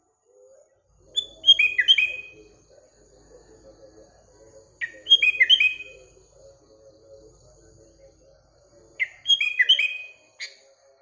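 Sooty-headed bulbul (kutilang) singing three short, bubbly phrases of quick falling notes, roughly every four seconds. Fainter chatter from other birds runs continuously behind.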